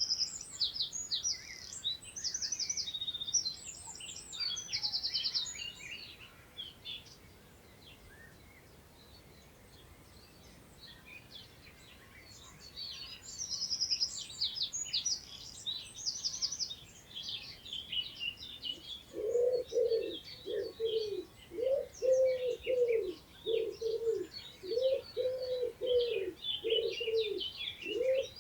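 Several small songbirds singing and twittering in quick, high phrases, with a quiet lull of a few seconds in the middle. From about two-thirds of the way through, a low cooing call repeats steadily under the song, a little more than once a second.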